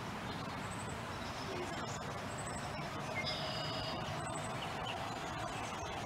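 Birds singing: short high chirps repeated every second or two, and a brief burst of several high notes about three seconds in, over a steady low background rumble.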